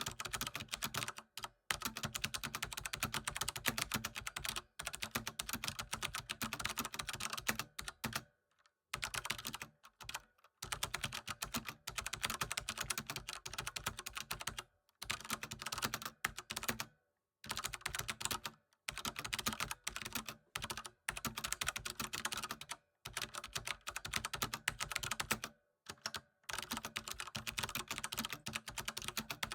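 Fast, continuous typing on a computer keyboard: dense key clicks in runs of several seconds, with brief pauses between runs.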